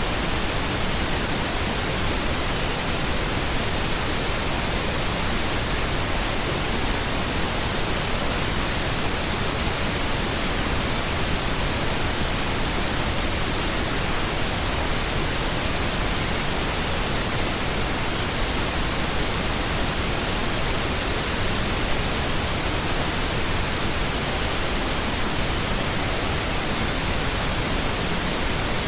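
Pink noise: a steady, unchanging hiss spread evenly across the whole range, like a constant ocean rush.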